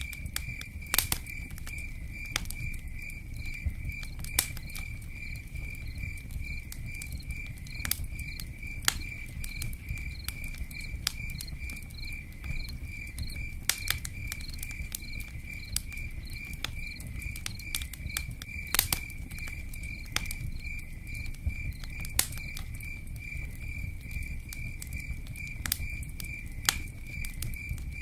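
Campfire crackling, with sharp irregular pops every second or few over a steady low rush, while a cricket chirps in a steady, even pulse throughout.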